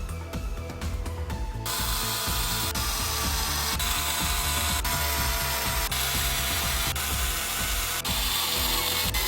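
A power tool runs steadily from about two seconds in, over background music.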